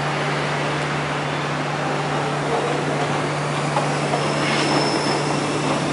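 Steady rushing noise of a train with a constant low hum underneath; nothing starts or stops.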